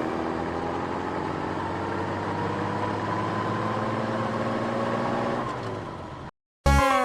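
Car engine sound effect running steadily, its pitch rising slightly, then fading out about six seconds in.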